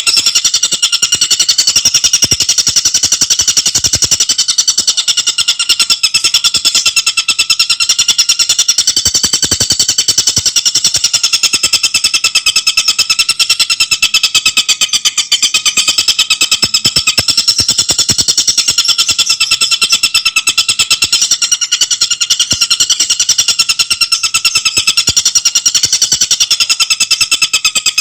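Tengkek buto songbird singing a fast, unbroken chattering trill of rapidly repeated high notes, kept up without a pause.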